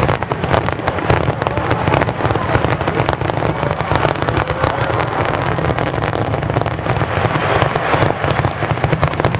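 Aerial fireworks going off in a dense, continuous barrage: many closely spaced bangs and crackles over a low rumble, with no pause.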